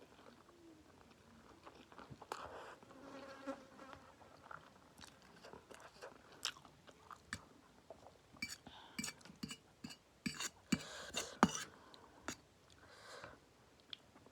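A person chewing spicy instant noodles mixed with peanuts close to the microphone: wet mouth clicks and crunches, loudest in the second half.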